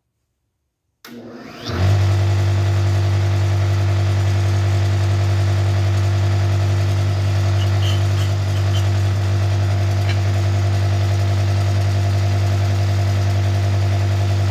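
A connecting-rod cap cutter is switched on about a second in. Its electric motor spins up within a second and then runs with a steady hum.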